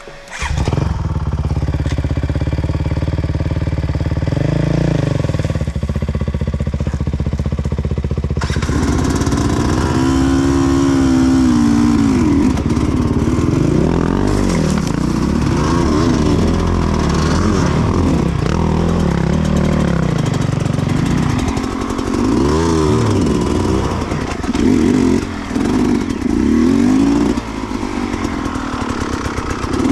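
Sherco 300cc two-stroke enduro motorcycle engine starting abruptly about half a second in and running steadily for several seconds. It is then revved up and down repeatedly while riding off-road.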